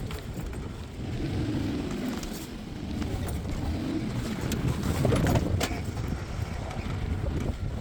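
Suzuki off-roader's engine running as it drives over a rough track, with a few sharp knocks about five seconds in.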